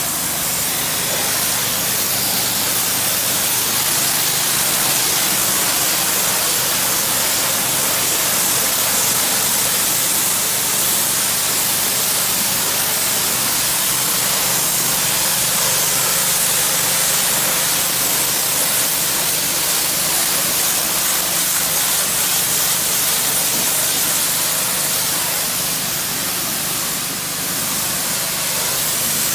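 2700 PSI pressure washer spraying a wall: a loud, steady hiss of the high-pressure water jet with a low, steady engine hum beneath it.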